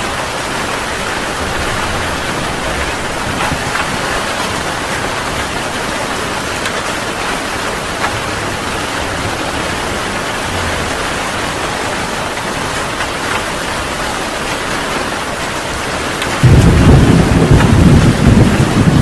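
Heavy rain falling steadily, then a loud low rumble of thunder breaks in suddenly near the end and keeps rolling.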